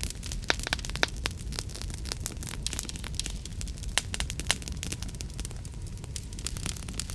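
Wood fire burning in a fireplace: a steady low rumble of flames with frequent irregular crackles and a few sharper pops.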